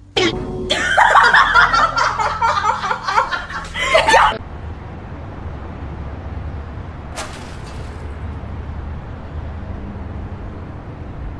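A person laughing hard for about three and a half seconds, cutting off abruptly. After that there is a steady low background hum, with a single sharp click a few seconds later.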